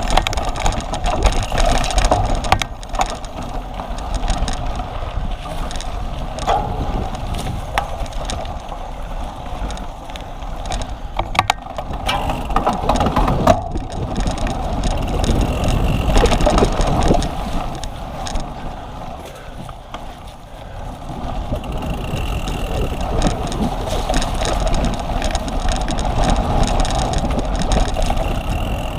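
A cyclocross bicycle being raced over rough ground: a steady rush of wind noise with rattling and sharp clicks and knocks from the bike.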